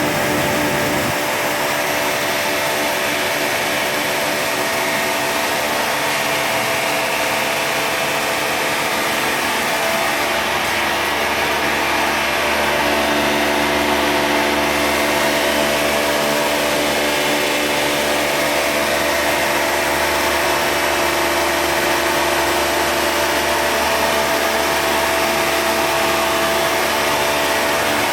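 Oil-sealed rotary vane vacuum pump running steadily, a continuous motor-and-pump drone with a few fixed tones that shift slightly about 12 seconds in.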